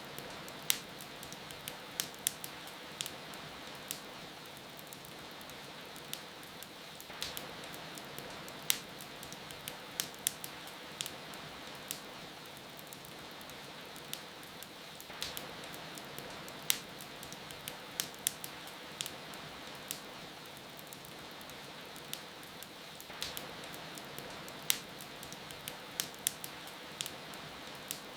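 Wood fire crackling, with frequent sharp, irregular pops over a steady hiss of rain.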